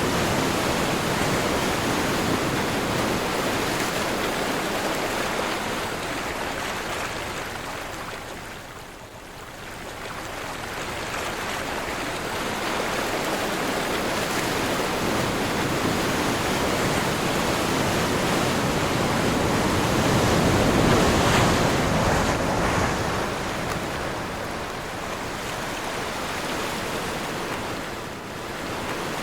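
Ocean surf in strong wind: a continuous wash of breaking waves that swells and ebbs, easing to a lull about nine seconds in and building to its loudest surge about twenty-one seconds in.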